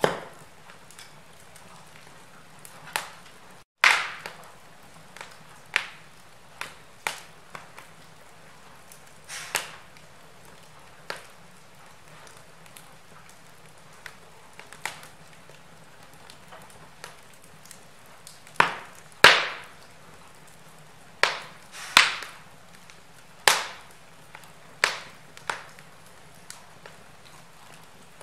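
Log fire burning in a fireplace: irregular sharp crackles and pops of the burning wood over a faint steady hiss, with a cluster of louder pops in the second half.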